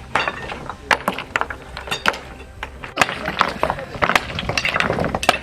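Demolition work: irregular knocks and metal clinks of structures being struck and broken up, with people's voices in the background.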